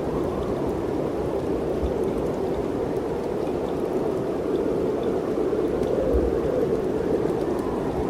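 Mountain wind blowing steadily through the trees, a dense rushing noise that swells slightly a little past the middle.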